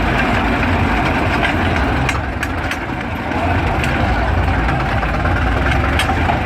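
Crawler tractor engine running steadily at idle, easing slightly for about a second partway through.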